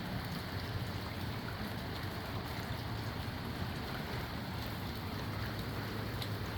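Steady rain falling in strong wind: an even hiss of rain over a low rumble.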